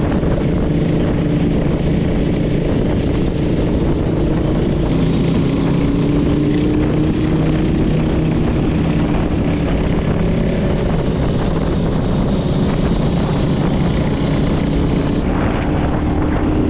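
Suzuki Grass Tracker's 250cc single-cylinder engine running under way, its pitch rising slightly in the middle.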